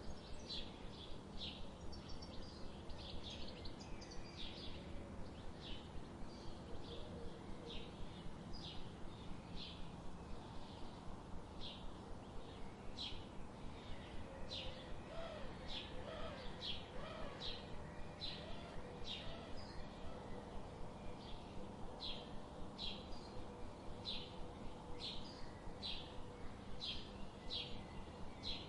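Birds chirping: short, high chirps repeated about once or twice a second, with a few lower, wavering calls about halfway through, over a steady background hiss.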